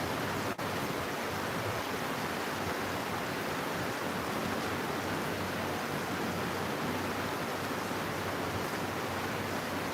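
Steady, even hiss of heavy rain falling, with a momentary break about half a second in.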